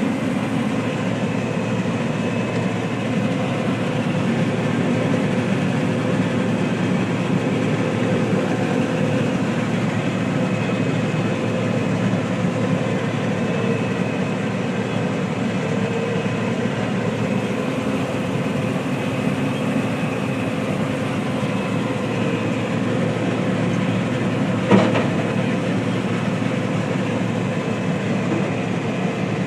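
Harvest machinery running steadily, a continuous mechanical drone and clatter with a sharp click about 25 seconds in.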